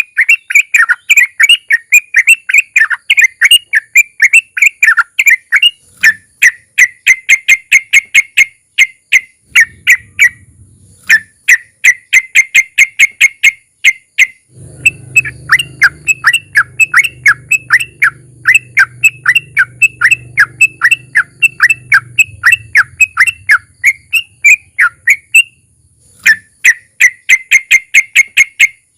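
Yellow-vented bulbul (trucukan) singing long, rapid runs of sharp repeated notes (its 'ropel' trill), in extended phrases broken by short pauses. A faint low rumble underlies the song for several seconds in the middle.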